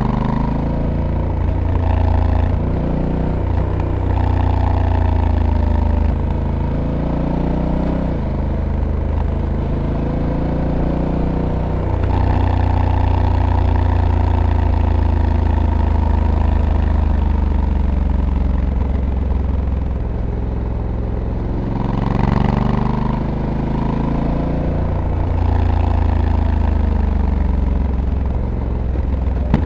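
Honda Africa Twin Adventure Sports DCT's 1084 cc parallel-twin engine under way, its note rising and falling over and over as the bike accelerates and slows through bends, with several sudden drops in pitch as the dual-clutch transmission shifts.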